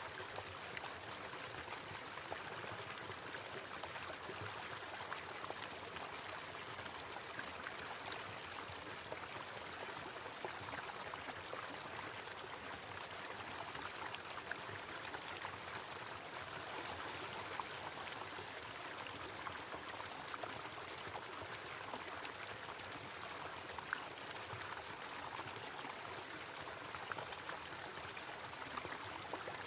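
Small waterfall: water falling and splashing steadily into a pool, a constant rushing with little splashes in it.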